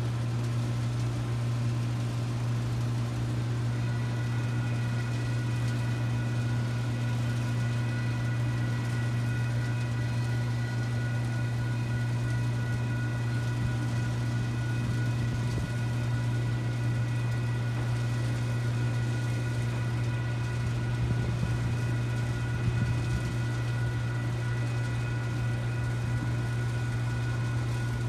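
Steady low engine hum, like a vehicle idling. About four seconds in, a set of steady high ringing tones joins it and holds.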